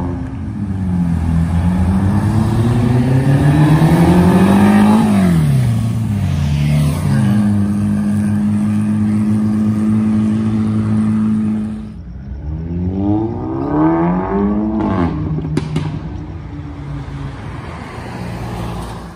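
Car engine revving: the note climbs for about four seconds, drops back sharply and holds steady. After a cut, a second car's engine revs up and falls back again near the end.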